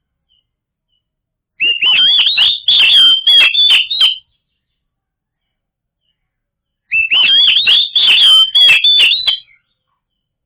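Oriental magpie-robin (kacer) song, a recording used as a lure call to prompt other kacer to sing. Two loud phrases of rapid whistled notes mixed with sharp clicks, each about two and a half seconds long, begin about a second and a half in and about seven seconds in, with dead silence between them.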